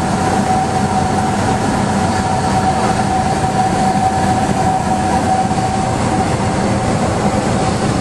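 Cessna 172's piston engine and propeller droning steadily, heard inside the cabin, with an even hum and no change in power.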